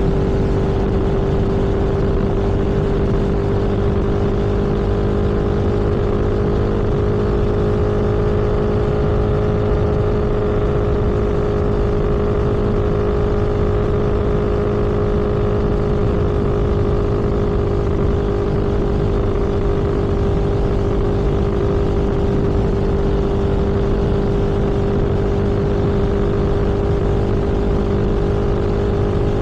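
A vehicle cruising at steady speed: an even, unchanging drone from the engine or tyres over a constant rumble of road and wind noise.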